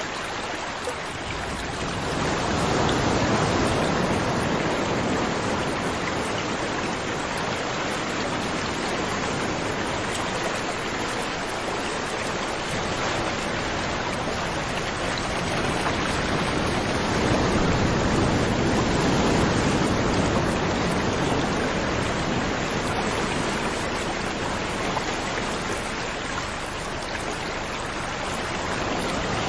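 Rushing water, like a stream or small waterfall: a steady hiss that swells slowly louder and softer.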